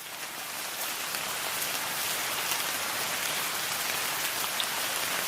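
Steady rain falling, a dense even hiss with scattered drops, fading in over the first second.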